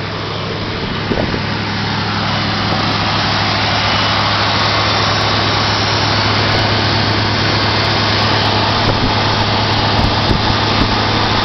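Ford 351 V8 in a 1978 Mercury Cougar running steadily while warming up after a cold start, getting a little louder over the first few seconds.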